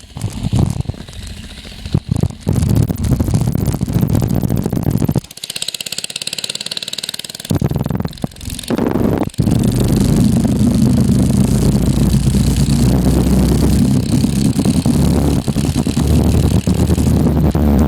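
Baja mini bike's small single-cylinder engine running as it is ridden, its pitch changing for the first few seconds. The engine sound drops away for about two seconds near the middle, then comes back and runs steadily for the rest.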